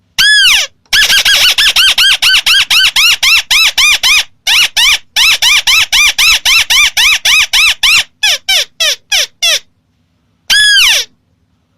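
Ruddy-breasted crake call played as a lure: one arched note, then a long fast series of short rising-and-falling notes at about five a second with a brief break near four seconds, ending in a few falling notes and a single note near the end.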